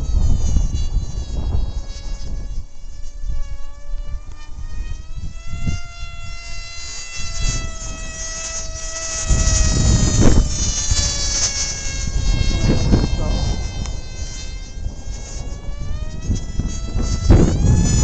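Motor and propeller of a Ritewing Lightning 36 RC flying wing whining in flight, its pitch falling and rising as the plane passes and turns. Gusty wind rumbles on the microphone, strongest about halfway through and near the end.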